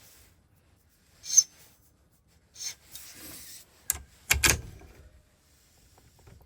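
Hand file scraping a brass key blank in a few short strokes and one longer one, then sharp metallic clicks and a knock, the loudest sound, about four and a half seconds in.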